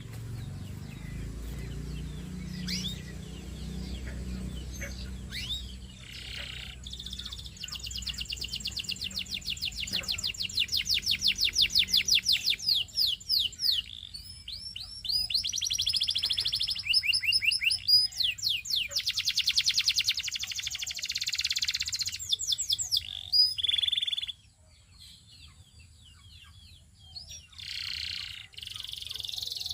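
Canary singing long, rapid trills and rolls of fast repeated high notes in several phrases, with a pause of a few seconds near the end before it starts again. A low hum sits under the first few seconds.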